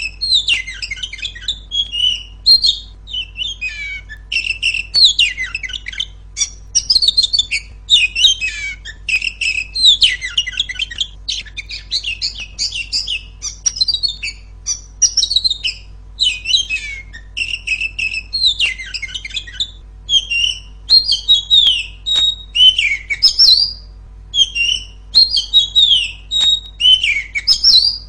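Female Oriental magpie-robin (kacer) singing: a busy, unbroken run of short chirps, quick whistled sweeps and rattling phrases, with only brief pauses between them.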